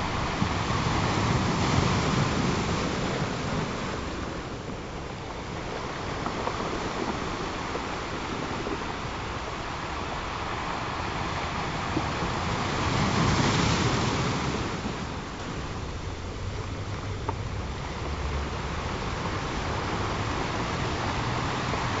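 Ocean surf, a continuous rush of waves washing in and drawing back, swelling louder about two seconds in and again about two-thirds of the way through.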